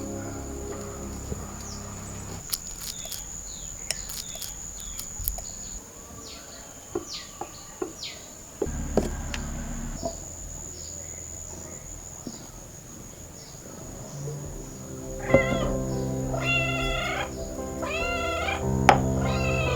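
A cat meowing about four times near the end, over soft background music. Earlier there are a few short, high, falling chirps.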